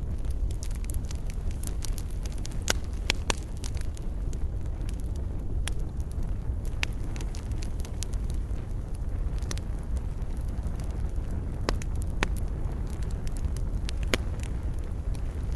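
Wood campfire burning: a steady low rumble with irregular sharp crackles and pops from the burning wood.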